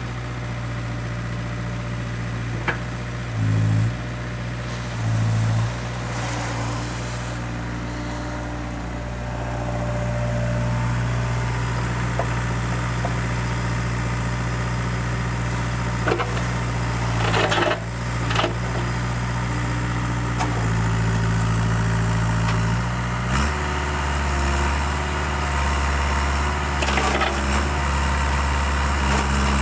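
Bobcat 430G mini excavator's diesel engine running steadily. Its note swells briefly twice in the first six seconds and steps down lower about three-quarters of the way through. A short scraping clatter comes about halfway.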